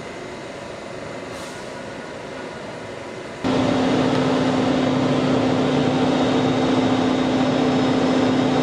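Quiet railway platform noise, then about three and a half seconds in a sudden jump to a loud, steady train machine sound with a strong held low hum, as of a train's engine or cooling blowers running close by.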